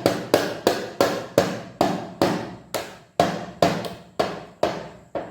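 A drum beaten by a baby with single hits, about three a second at a fairly even pace, each hit ringing briefly before the next.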